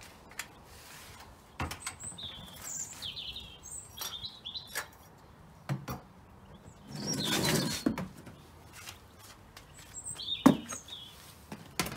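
Small birds chirping now and then, with several sharp knocks and a rustling stretch about seven seconds in as plastic bird-food containers are handled and put into a storage box. The loudest knock comes near the end.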